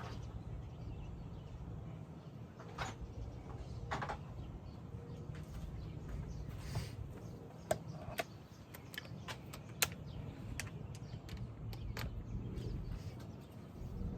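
Scattered light clicks and clinks of hand tools on car parts, a few at a time with gaps between, over a steady low hum.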